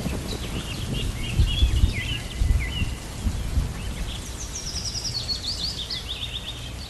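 Small birds chirping, with a quick run of repeated falling notes a few seconds in, over an uneven low rumble.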